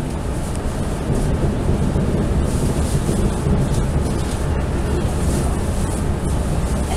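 Running noise inside a Fu-Hsing express passenger coach as the train moves: a steady rumble of wheels on the rails with a rushing hiss, getting a little louder about a second in.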